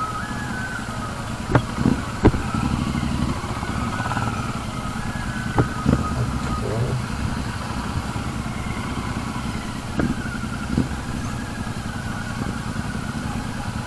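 Motorcycle engine running steadily at low revs, with several sharp knocks scattered through it.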